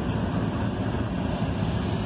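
Cab noise of a 2001 Dodge Dakota with the 4.7-litre V8 running: a steady low rumble of engine and road.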